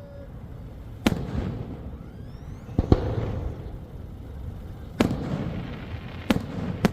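Aerial fireworks shells bursting: five sharp booms one to two seconds apart, each trailing off in an echoing rumble.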